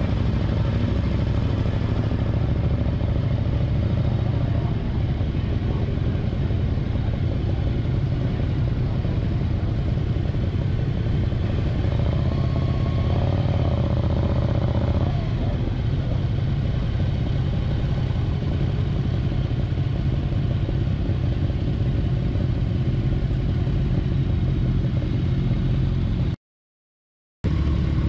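Ducati Monster 659's air-cooled V-twin engine running at low revs as the bike rolls slowly, a steady low rumble. About halfway through a higher whine rises and holds for a few seconds. Near the end the sound cuts out completely for about a second.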